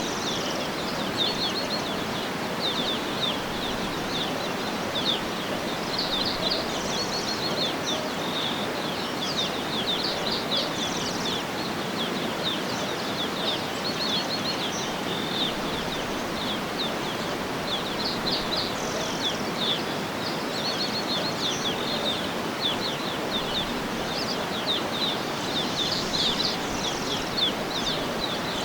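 Birds chirping in quick runs of short, high chirps over a steady, even background hiss of outdoor ambience.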